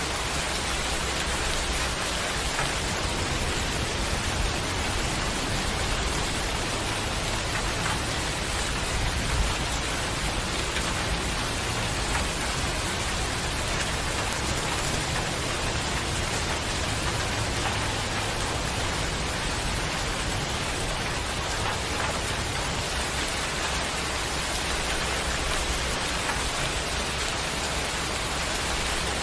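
Steady heavy rain falling on surfaces, a dense even hiss with scattered drop ticks.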